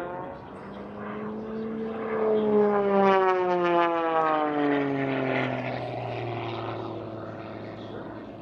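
Propeller aircraft engine flying past in an aerobatic display, its pitch sliding down as it goes by and loudest about three seconds in.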